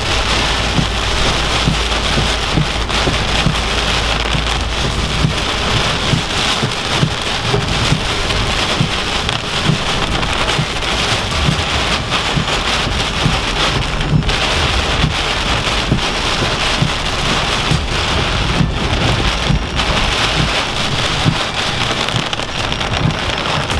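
Heavy hurricane rain pelting a car in a dense, steady downpour, with constant small drop impacts and low thuds from the gusts.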